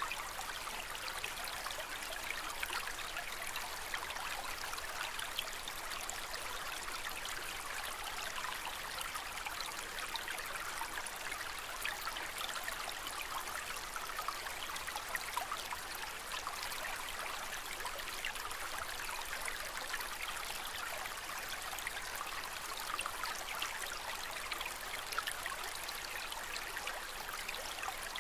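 Aquarium water trickling steadily: an even splashing hiss full of tiny droplet sounds, with no change over the whole stretch.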